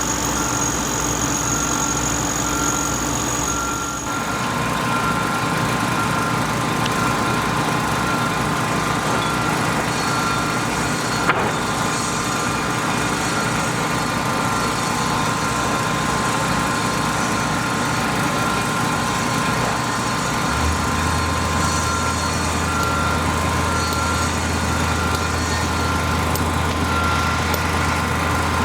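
Steady engine noise from motor vehicles or heavy equipment running, with a single sharp click near the middle.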